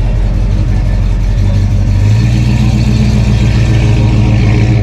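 Car engine running at a low, steady idle, picking up a little about two seconds in.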